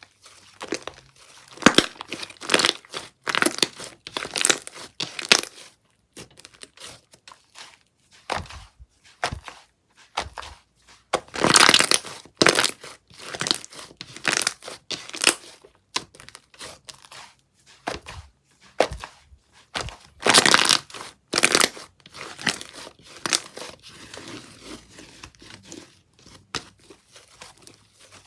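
Slime being handled: squished, stretched and poked, giving irregular crackly popping and tearing sounds, with louder bursts about halfway through and again about two-thirds of the way in.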